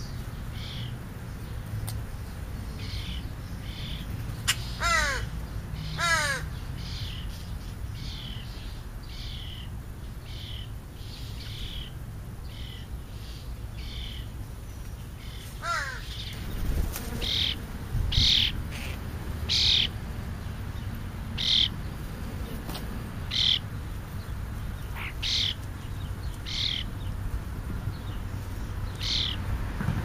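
Birds calling: short high chirps repeat every second or two, with louder calls that fall in pitch about five and six seconds in and again near the middle, over a steady low rumble.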